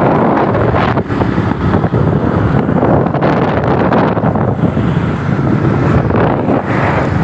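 Wind rushing and buffeting on the microphone of a moving motorcycle, loud and steady, with the motorcycle's running and road noise mixed in underneath.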